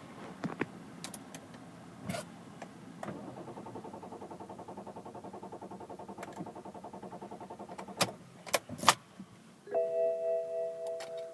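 Car ignition and dashboard sounds from a 2005 BMW 535d that won't start: a few clicks, then a rapid, even pulsing mechanical hum for about five seconds. Three sharp clicks follow, then a multi-tone warning chime rings and fades near the end.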